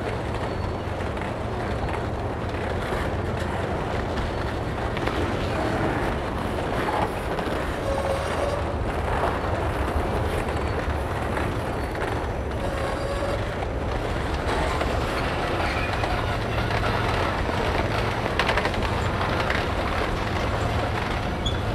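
Freight cars rolling slowly by on steel wheels, with clicking over the rail joints and a steady low hum underneath. Twice, in the middle, there is a short squeal from the wheels.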